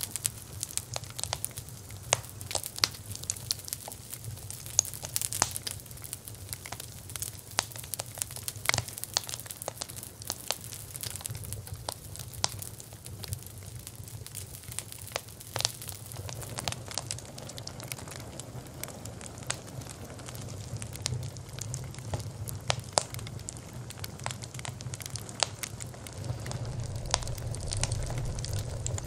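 Wood fire crackling: frequent sharp pops and snaps over a steady low rumble of flames. The rumble grows louder in the second half.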